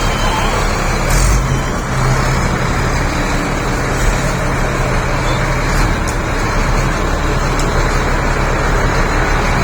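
Shantui SD32 crawler bulldozer's diesel engine running at a steady drone, with a few short sharp clicks or knocks over it.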